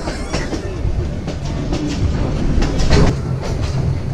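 Passenger train carriage running along the track, heard from its open doorway: a steady low rumble with an uneven run of wheel clacks over the rails, the loudest about three seconds in.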